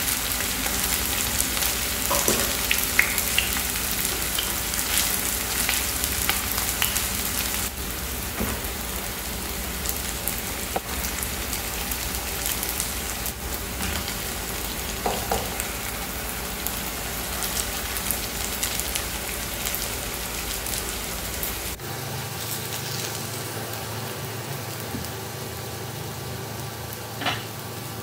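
Potato patties shallow-frying in oil in a pan: a steady sizzle with crackles. A few light knocks of a spatula against the pan, the loudest near the end.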